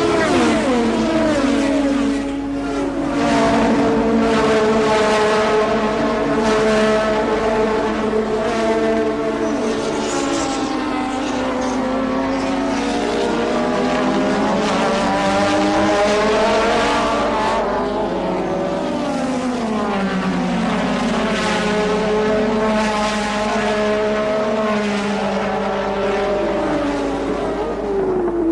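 1984 Formula One race cars on track, several engines at once revving up and dropping pitch through gear changes, their notes overlapping.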